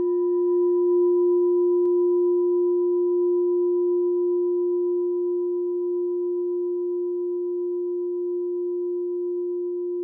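A meditation bell ringing on after a strike, one long, steady, low hum with a fainter high overtone, slowly fading. Its highest overtones die away in the first couple of seconds, and a faint click comes about two seconds in.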